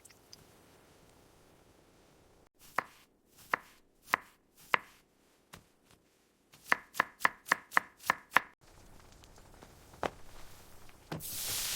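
Knife chopping food on a cutting board: a few slow, evenly spaced chops, then a quick run of about eight chops at around five a second, and one last chop. A steady hiss starts near the end.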